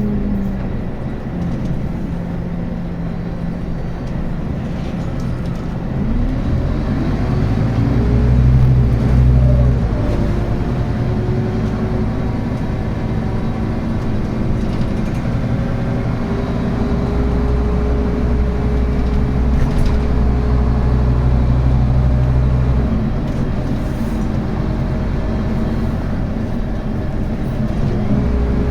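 Scania N280UB city bus's diesel engine under way, its pitch rising and falling as it pulls, shifts through the ZF Ecomat automatic gearbox and eases off. The engine is loudest around eight to ten seconds in and again a little before twenty seconds.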